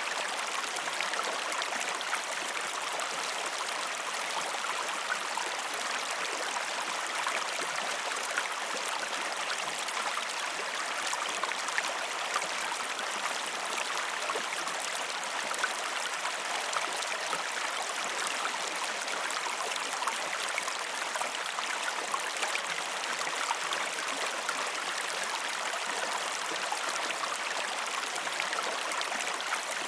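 River water rushing and splashing steadily over rocks, a constant hiss dotted with countless small splashes and droplets, with no deep rumble.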